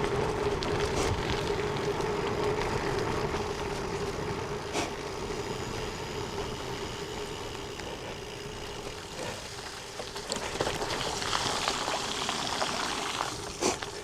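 Gravel bike tyres rolling through water and wet gravel with a steady rushing, splashing noise and a few sharp clicks.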